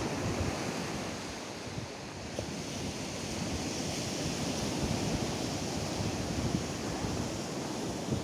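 Atlantic surf breaking and washing up a sandy beach, a steady rush with a slow swell, with gusting wind buffeting the microphone.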